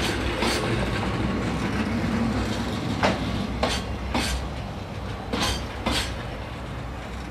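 Wheels of Koki container wagons at the tail of a freight train clacking over rail joints, sharp clicks coming in pairs a few seconds apart over a low rumble, getting quieter as the last wagon moves away. Wind rumbles on the microphone.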